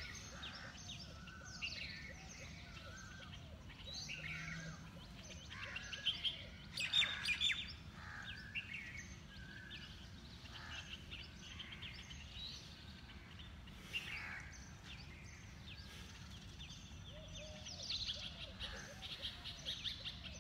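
Several birds chirping and calling, with many short overlapping chirps and trills, busiest about seven seconds in, over steady low background noise.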